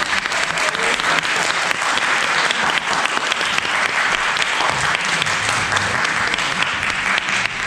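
Audience applauding: many people clapping steadily, fading just after the end.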